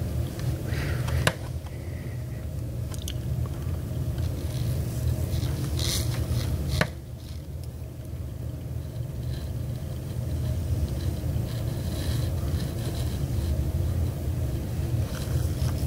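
Wind buffeting the microphone as a steady low rumble, with a few sharp scraping clicks, one about a second in and a louder one near the middle.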